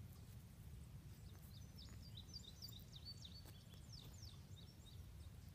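Faint bird song: a quick run of high chirps and down-slurred notes starting about a second and a half in and ending about four seconds in, over a low steady rumble.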